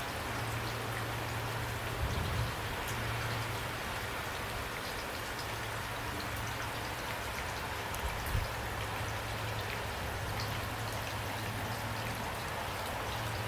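Steady rain falling, with individual drops ticking over an even hiss and a steady low hum underneath. Two brief low thumps come about two seconds in and again about eight seconds in.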